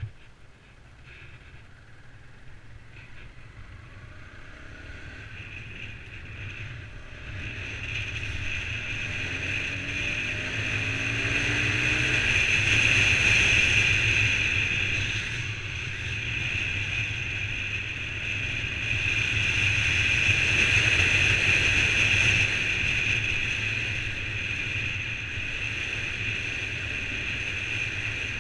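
Honda CBR125's small single-cylinder four-stroke engine pulling away and accelerating, its note rising over the first dozen seconds, easing off around the middle, then picking up again and dropping back a little near the end. Wind rushes over the bike-mounted microphone and grows loud with speed.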